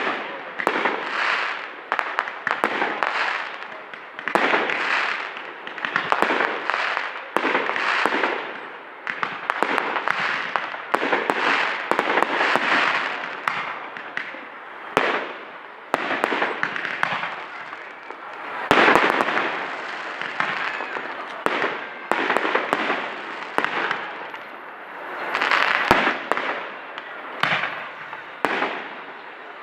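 Fireworks going off one after another: sharp bangs mixed with crackling bursts that come every second or two without a break.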